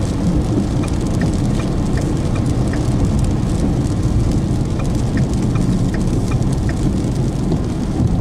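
Rain ticking on a moving vehicle over a steady rumble of road and engine noise.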